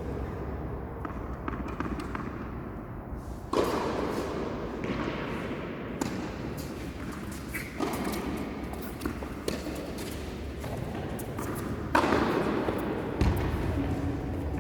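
A few separate tennis ball impacts, spaced several seconds apart, over a steady low hum.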